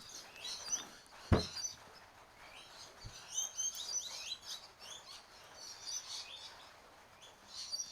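Small birds chirping and twittering in short scattered phrases, with a single sharp knock about one and a half seconds in.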